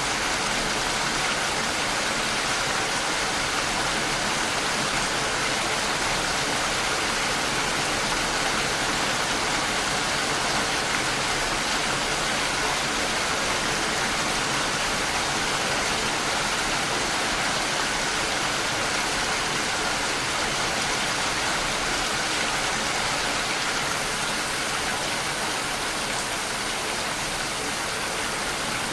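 Steady rain falling, an even hiss of many drops with no thunder, a little softer in the last few seconds.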